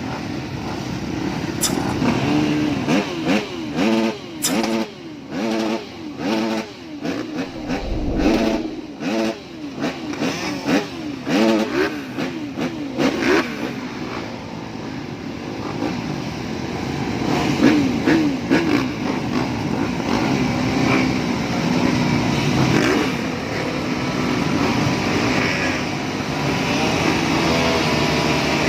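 A field of motocross bikes revving their engines, many overlapping, pitches rising and falling in quick bursts through the first half, then settling into a steadier running drone of the pack.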